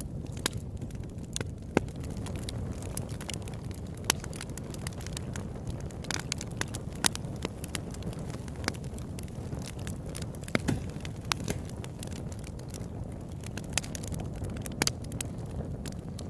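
Campfire burning: a steady low rumble of flame under scattered sharp crackles and pops, several of them louder and standing out.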